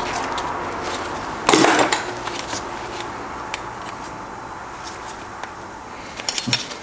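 Hand tools and metal transmission parts being handled on a workbench: one short, loud clatter about a second and a half in and a few light clicks near the end, over a steady hiss that slowly fades.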